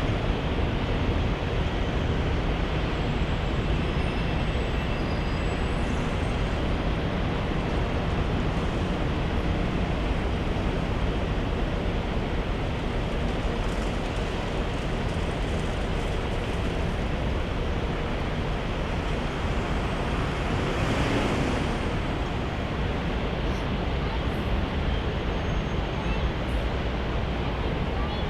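Steady roar of jet aircraft engines at an airport. About three quarters of the way through, something passes close, with a brief rise and fall in pitch.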